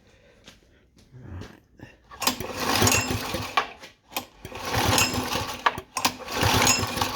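Honda GX110 engine's recoil starter pulled about three times, starting about two seconds in, turning the engine over with the spark plug out to check for spark.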